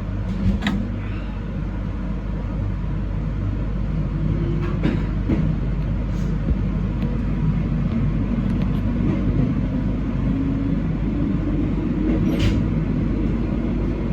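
Train running and gathering speed, heard from the cab: a steady rumble under a drive tone that slowly rises in pitch, with a few sharp clicks of the wheels over rail joints.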